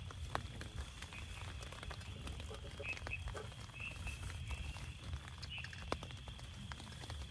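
Rain pattering steadily on a tent, with scattered drips and a few light knocks as the panels of a folding camp table are handled and set down. A few short chirps come through between about one and six seconds in.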